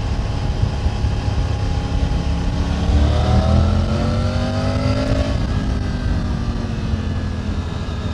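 Triumph Tiger 900's three-cylinder engine under way over wind rumble; about three seconds in it revs up under acceleration, the pitch rising for two seconds, then drops sharply as the throttle closes or the rider shifts, and settles into a steady note.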